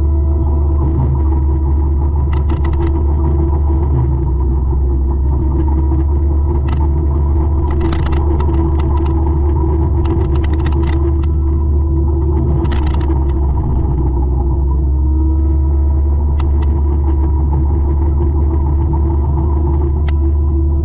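A 200-horsepower forestry mulcher running steadily under load, a heavy deep rumble with a constant engine drone. Several short bursts of sharp cracks and clicks come through it, a few seconds apart.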